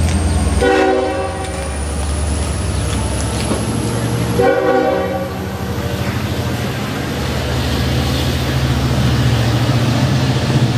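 The locomotive horn of an LIRR DE30AC diesel sounds two short blasts a few seconds apart, heard from on board the train, over the steady low rumble of the train running.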